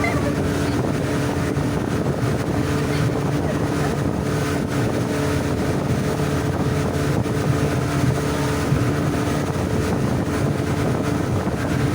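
Motorboat engine towing a banana boat, running steadily at speed, with wind buffeting the microphone.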